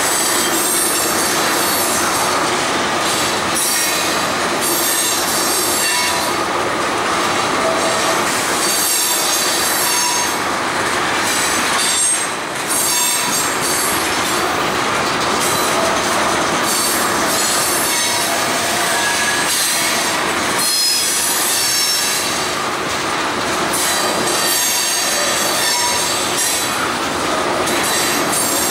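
Freight train cars rolling past at close range, a steady loud rumble and rattle of wheels on rail with high-pitched wheel squeals coming and going.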